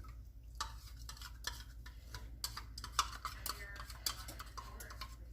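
A spoon clinking and scraping against a small bowl as a thick sauce mixture is poured and scraped out, a run of irregular light clicks.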